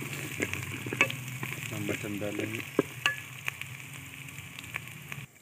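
Onion, garlic and ginger paste sizzling as it fries in ghee in a metal pot, with a spoon stirring and clicking against the pot. The sizzle cuts off suddenly near the end.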